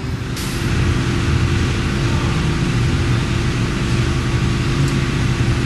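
C5 Corvette's V8 engine idling steadily: a low rumble with a steady hum, joined by a hiss about half a second in.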